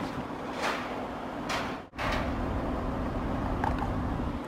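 Toyota GR Yaris's 1.6-litre turbocharged three-cylinder idling with a steady low hum, with two brief whooshes in the first two seconds and a momentary dropout at about two seconds.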